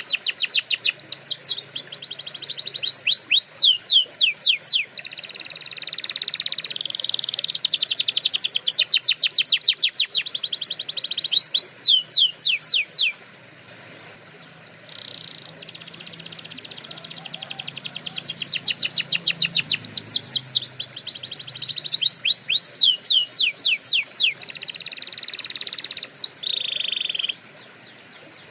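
Domestic canary singing: long phrases of rapid trills and repeated sweeping whistled notes, with a short lull about halfway through and a break near the end.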